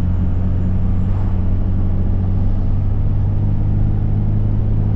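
Cummins 5.9 24-valve diesel running steadily under way, with a thin high turbo whistle that slowly rises in pitch.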